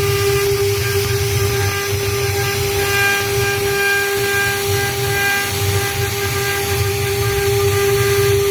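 CNC stone router's spindle running with a steady high whine and fainter overtones that come and go, over a continuous hiss and an uneven low rumble.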